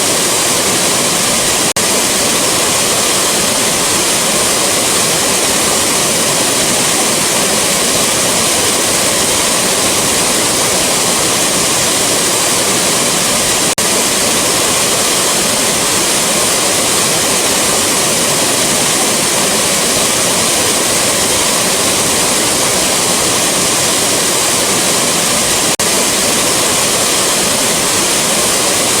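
Rushing waterfall: a steady, dense roar of falling water. A tiny dropout comes about every twelve seconds where the recording loops.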